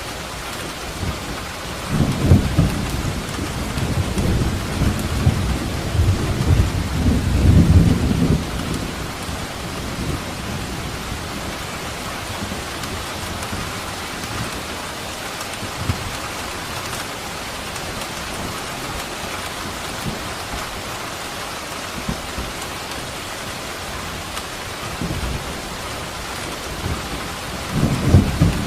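Steady rain falling during a thunderstorm, with rolling thunder: a long low rumble from about two seconds in until about nine seconds, and another starting near the end.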